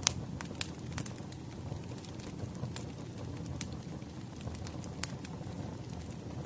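Wood fire burning with a steady low rumble and irregular sharp crackles and pops, the sharpest right at the start and another about five seconds in.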